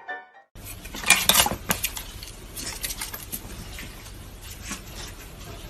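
Hard objects clinking and clattering, like dishes or cutlery knocked about, with a quick run of sharp clinks about a second in and scattered lighter ones after, over a low steady hum.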